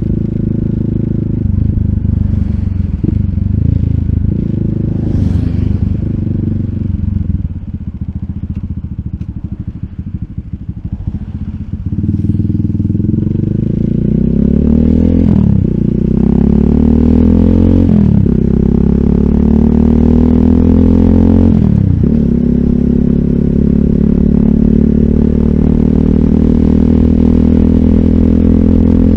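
RUSI Classic 250Fi motorcycle engine through an Eli's Muffler full exhaust with slip-on bullet pipe, ridden: steady running, then a few seconds of easing off to a lower, quieter note. It then accelerates with rising pitch through three upshifts a few seconds apart and settles into a steady cruise.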